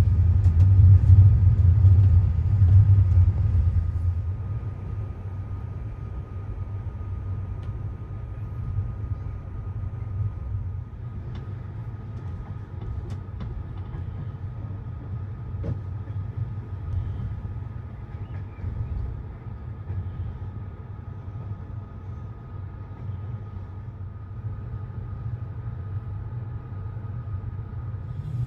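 Moving passenger train heard from on board: a low rumble, louder for the first few seconds and then settling into a steady drone, with a faint steady high tone and a few light clicks.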